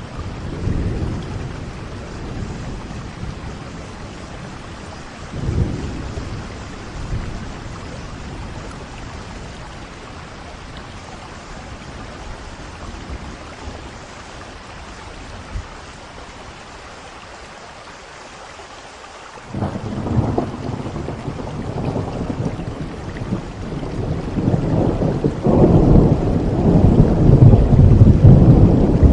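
Steady rainfall with rolls of thunder. Soft rumbles come early, then a quieter spell, then thunder breaks in suddenly about two-thirds of the way through and builds to a loud, long rolling rumble near the end.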